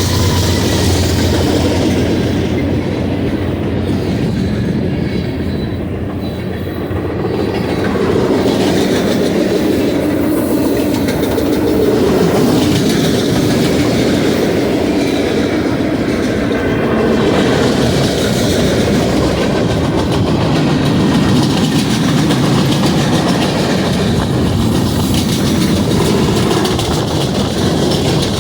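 BNSF manifest freight train rolling past, its mixed freight cars' wheels clacking steadily over the rail joints with a continuous heavy rumble.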